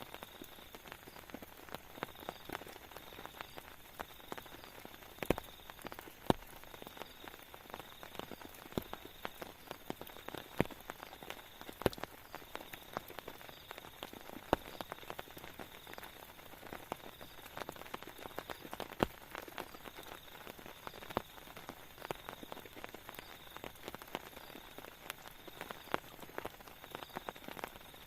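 Rain falling steadily, with many irregular sharp taps of drops striking a surface close by.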